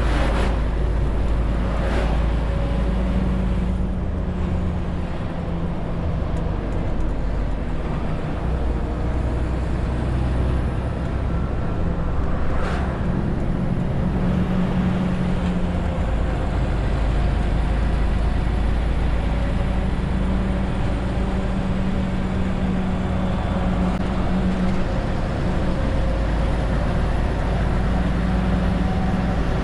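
Renault T520 truck's 13-litre straight-six diesel running under load, its note rising and falling as the engine speed changes. Two short sharp sounds cut through, about 2 seconds in and again near the middle.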